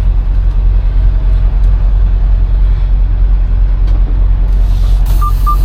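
Semi truck's diesel engine running steadily, a low rumble heard from inside the cab. About five seconds in, a rapid beeping starts at roughly four beeps a second as the truck is put into reverse for backing.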